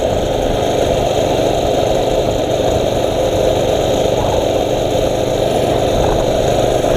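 Mini bike's small engine running steadily while it is being ridden.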